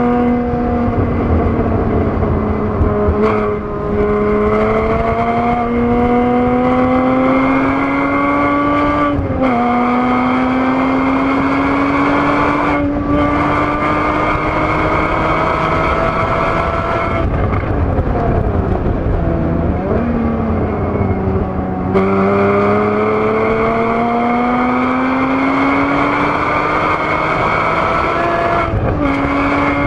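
Porsche Boxster S (981) flat-six engine at full throttle heard from inside the cabin, its pitch climbing steadily with a sudden drop about nine seconds in as it shifts up. Around eighteen to twenty-two seconds it falls and swings up and down in quick blips as the car slows and downshifts, then climbs again under throttle until the pitch drops near the end.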